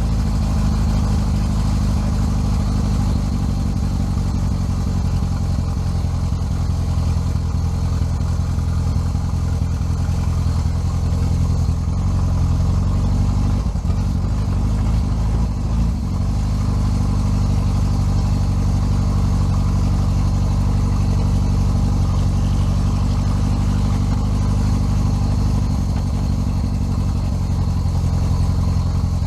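An engine idling steadily, its pitch wavering briefly about halfway through before settling again.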